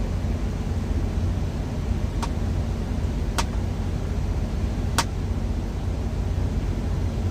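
Steady low rumble of an idling truck engine, with three short sharp clicks a second or so apart in the middle.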